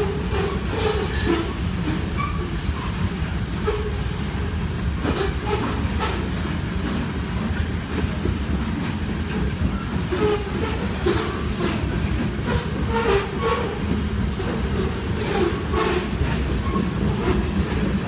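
Freight train of grain cars rolling past with a steady low rumble, and irregular clicks of steel wheels over rail joints.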